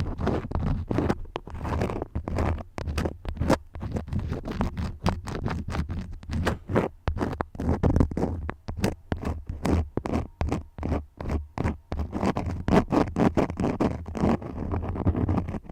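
Crayons scribbling close to the microphone: quick, scratchy strokes, several a second, over a deep rumble.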